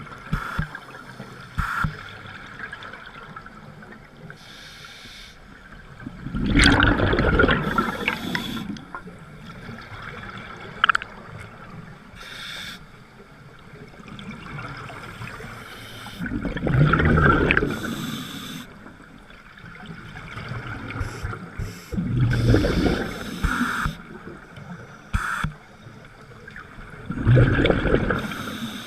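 Water sloshing and splashing against a boat, in loud surges every five seconds or so over a steady trickling background.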